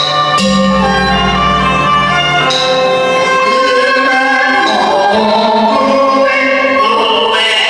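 Teochew opera instrumental accompaniment, with a bowed fiddle carrying the melody over the ensemble. A low struck tone comes in about half a second in and rings for about two seconds.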